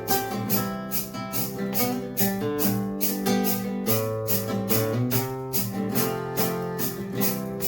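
Acoustic guitar strummed in a steady rhythm, about four strums a second, over held chords.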